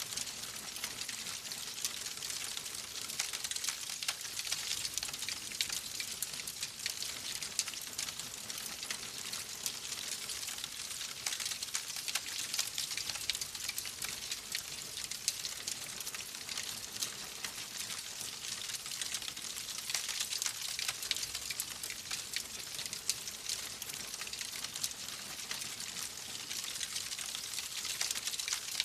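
Fireplace fire crackling: a steady hiss with many small, quick pops and snaps throughout.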